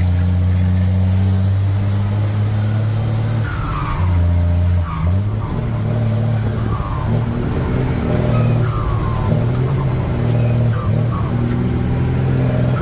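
Truck engine running while under way, its low steady hum stepping up and down in pitch several times, with short high falling squeals every second or two.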